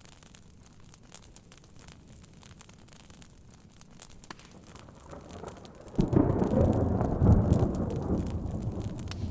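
Soft rain hiss with small scattered crackles, then about six seconds in a clap of thunder breaks suddenly and rumbles low for a couple of seconds before fading.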